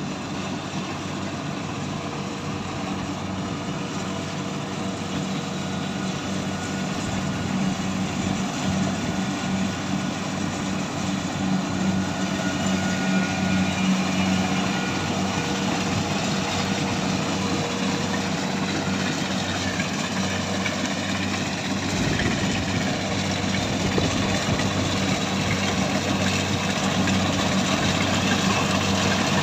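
Engine of a heavy harvesting machine running steadily, getting a little louder about a quarter of the way in and holding there.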